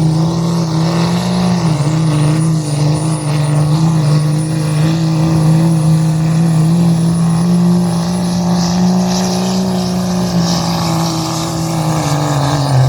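A pulling vehicle's engine at high revs under heavy load, its note held nearly steady with small wobbles, then dropping off near the end as the throttle comes back.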